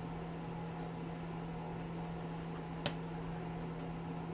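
A steady low electrical or mechanical hum, like a fan or appliance running, with one sharp click about three seconds in, as of a small part or tool being handled.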